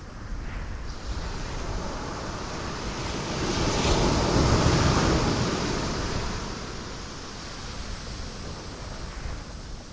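Ocean wave breaking on rocks: the surf swells to a loud crash about four seconds in, then washes back down to a steady lower rush.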